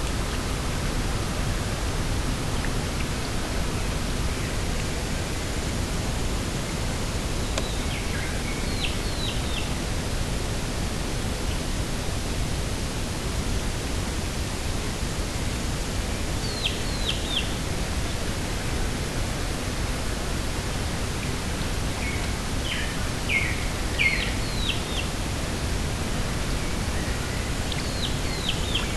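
Steady rushing of wind, with a bird giving four short series of three or four quick, high calls that slide down in pitch.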